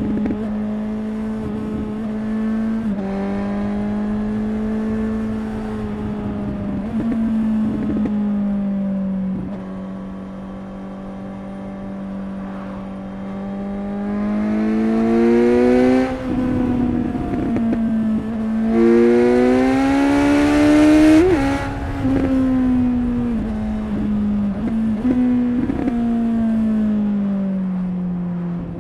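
Suzuki GSX-S750 inline-four engine and exhaust under way, holding a steady cruising note, then climbing in pitch twice as the throttle opens. It is loudest about two-thirds through with an added rush, then the note sinks slowly as the bike rolls off.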